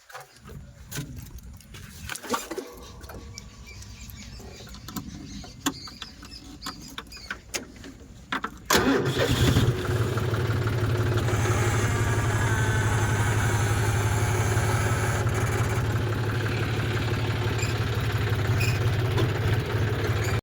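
Tractor engine starting about nine seconds in, then running steadily. Before it, scattered clicks and knocks.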